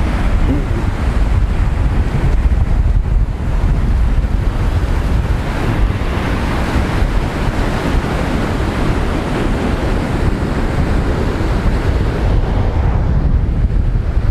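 Heavy surf breaking and washing on the beach under strong wind, with wind buffeting the microphone in a steady low rumble.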